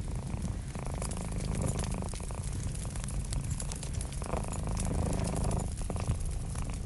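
A cat purring steadily over a crackling wood fire: a continuous low rumble that swells in waves every few seconds, under scattered sharp crackles and pops.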